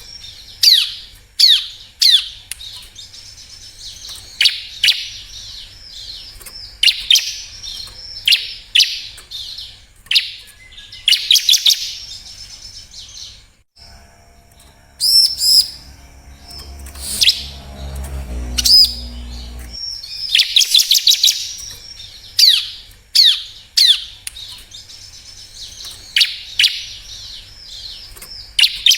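Bar-winged prinia (ciblek) calling: repeated bursts of rapid, high chirps and trills. About 14 s in, the chirping thins out for about six seconds while a low hum with steady low tones sounds, then the bursts resume.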